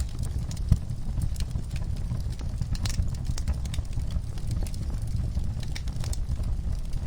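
Wood fire crackling in a fireplace: irregular sharp pops and snaps over a steady low rumble of the flames, one louder pop less than a second in.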